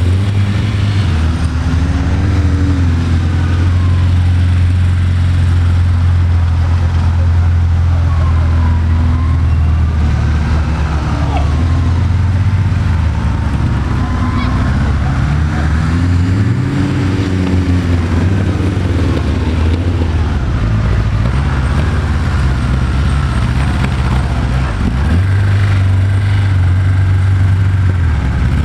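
Sporting-trial car's engine running under load, its revs rising and falling again and again.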